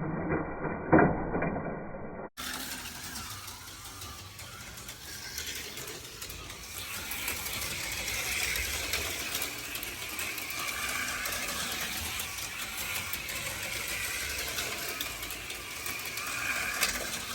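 HO scale slot cars running on a plastic track: small electric motors whining, with a rattle of cars on the track and a sharp knock about a second in. After about two seconds the sound turns brighter and hissier.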